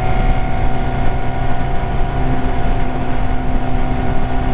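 BMW S1000R inline-four engine running at a steady speed while riding, with wind and road noise.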